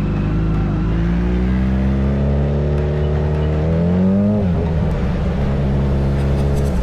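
Sport motorcycle engine accelerating hard, its pitch climbing steadily, then dropping sharply at a gear change about four and a half seconds in before climbing again.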